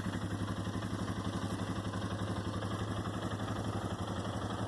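Four-wheeler (ATV) engine idling steadily with an even, fast low putter.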